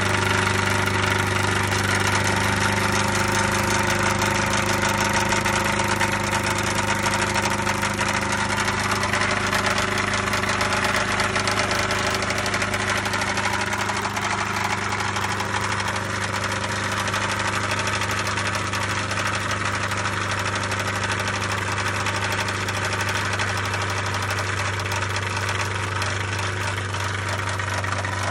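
1999 MerCruiser 3.0 four-cylinder marine engine running steadily at idle with a fast, even knocking in its note: the unidentified knock the owner is trying to diagnose.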